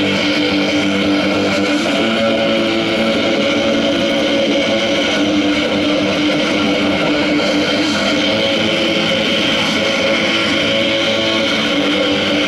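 Loud, distorted electric guitar noise rock played live: a dense, steady wall of held droning notes with no singing.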